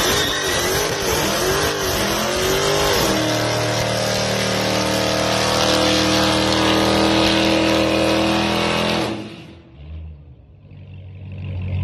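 Dodge Hellcat's supercharged 6.2-litre Hemi V8 doing a burnout with the rear tyres spinning: the revs bounce up and down for the first few seconds, then are held high and steady. About nine seconds in the throttle is lifted and the engine drops sharply to a low idle, which grows louder again near the end.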